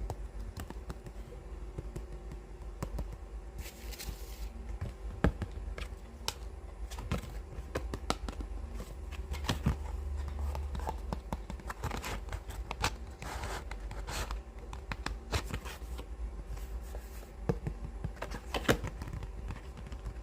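Fingernails tapping and scratching on books in irregular clicks, with a brief paper rustle about four seconds in.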